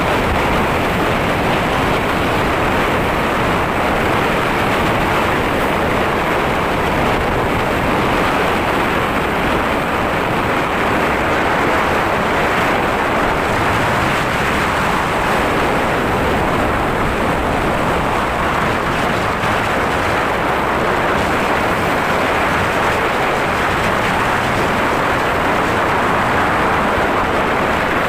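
Steady, loud rushing noise of a boat under way through rough water, wind and sea blended with the vessel's running.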